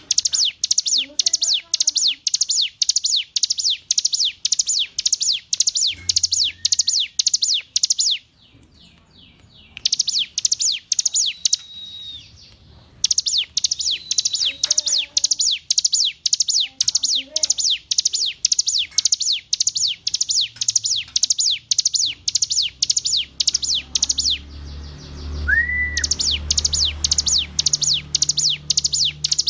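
Hill prinia (ciblek gunung) singing: long runs of sharp, quickly repeated down-slurred notes, about three a second, broken by two short pauses. A low hum comes up under the song near the end.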